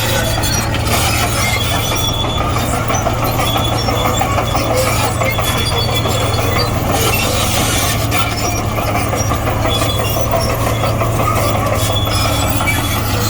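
Komatsu D58E crawler bulldozer at work: its diesel engine runs with a steady low drone, under the squeal and clatter of its steel tracks.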